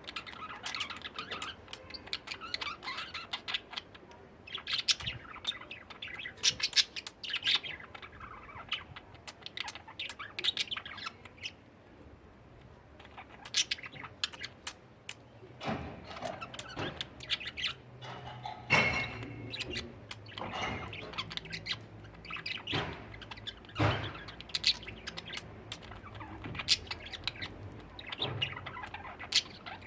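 Budgerigars chattering and warbling, a busy run of short chirps, squawks and clicks with a brief lull partway through.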